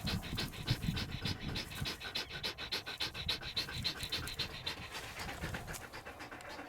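Galgo (sighthound) panting fast and hard in a quick, even rhythm of several breaths a second, easing slightly toward the end.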